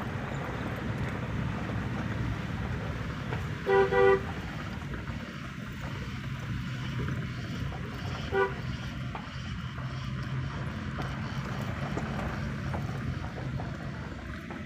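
A vehicle horn gives two quick toots about four seconds in and one short toot about four seconds later, over a steady low rumble of engine and road noise.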